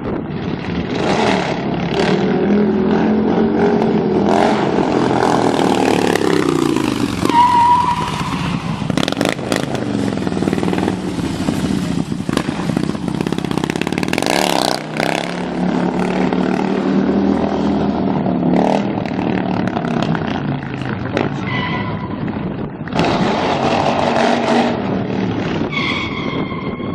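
Heavy motorcycle engine revving up and down over and over as it is ridden through stunts, with a few short sharp knocks in between.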